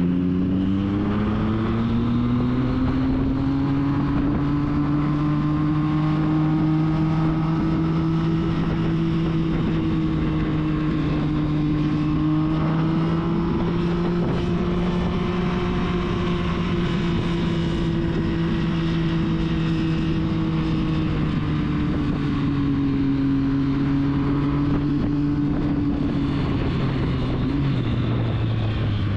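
Triumph Street Triple's inline three-cylinder engine pulling steadily under way, with wind rush on the microphone. Its pitch climbs in the first second, holds steady, and drops near the end.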